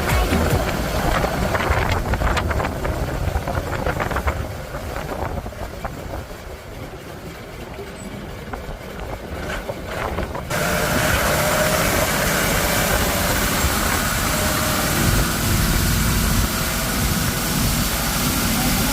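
Fishing boat's Yanmar diesel engine running with a steady low rumble. About ten seconds in, the sound jumps abruptly louder and fuller, with a faint whine over the rumble.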